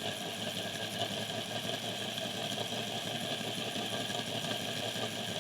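Tri-ang Hornby Jinty OO-gauge model locomotive running along the track, its small electric motor whirring steadily.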